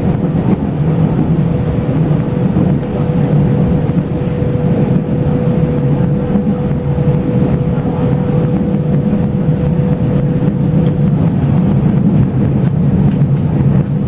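Taiwan Railways local express commuter train running steadily, heard from inside the carriage: an even low rumble from the wheels on the track, with a steady mid-pitched hum over it.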